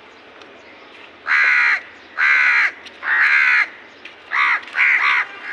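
A crow cawing five times: three long, harsh caws, then two shorter ones.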